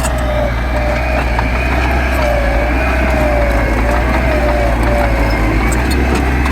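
Diesel engine of heavy earthmoving machinery running steadily under load, a low rumble with a whine that wavers slightly in pitch.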